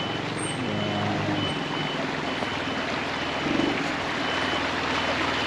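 Mountain stream rushing, swollen after rain, with a thin high electronic beep repeating about once a second.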